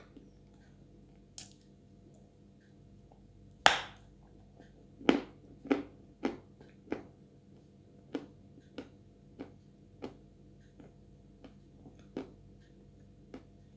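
Close-miked mouth chewing a very sticky Chuy clay paste, giving a series of wet smacking clicks about every half second to second. The first click, a little under four seconds in, is the loudest.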